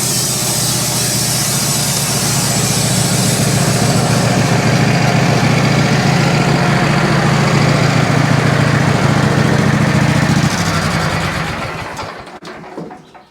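Wood-Mizer LT15 portable band sawmill running steadily, then winding down and stopping about eleven seconds in.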